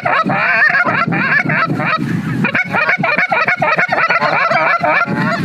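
Many geese calling at once: dense, overlapping honks and yelps, loud and continuous, thinning briefly about two seconds in.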